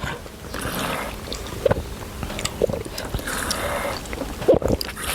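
Eating sounds at a bowl of noodle soup: two noisy, wet stretches of slurping, about a second each, near the start and in the middle, with small clicks and short bits of mouth noise in between.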